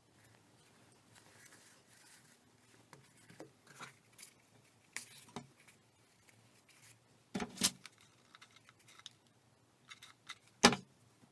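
Hands handling paper and craft materials: light rustling and small clicks, with a sharp knock about seven and a half seconds in and a louder one near the end.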